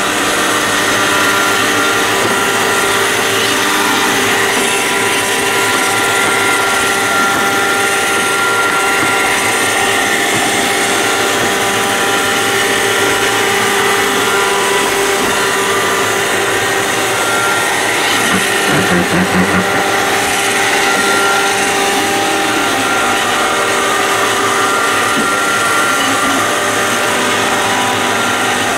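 iRobot Roomba 531 robot vacuum running, a steady motor and brush whir with several steady tones. There is a brief low rattle about two-thirds of the way in.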